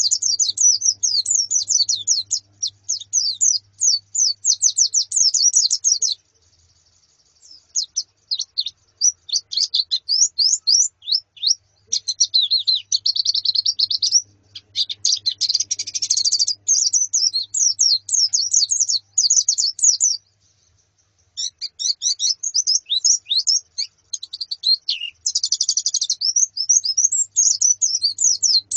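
A flock of white-eyes (pleci), females among them, chirping and twittering in rapid, overlapping high-pitched calls, with short breaks about six seconds in and around twenty seconds in.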